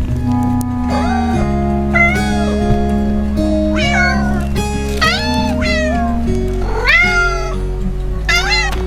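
A cat meowing about six times over background music, each meow rising and falling in pitch.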